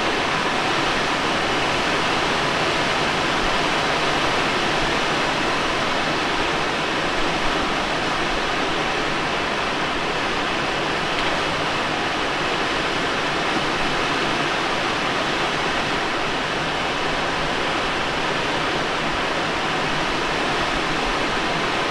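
Steady rush of airflow in the cockpit of a Let L-13 Blaník glider in flight, with no engine.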